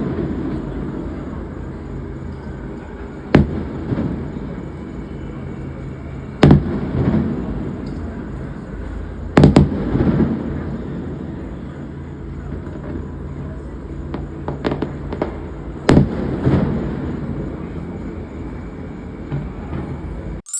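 Four loud booms a few seconds apart, each a sharp crack trailing off into low rumbling, with a few smaller pops between them over a steady low background noise.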